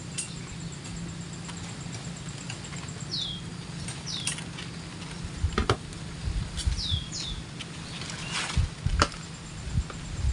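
A small bird gives short downward-sliding chirps, four in all in two pairs, over close rustling and knocks from handling as birdlime sticks are set in a bush; two sharp knocks, a little past halfway and near the end, are the loudest sounds.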